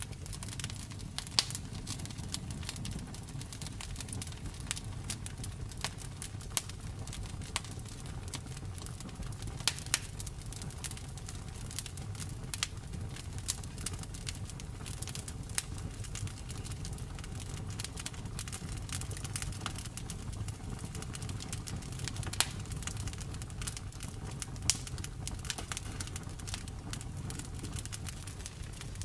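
Wood fire crackling in a fireplace: a steady low rumble with frequent sharp pops and snaps, a handful of them much louder.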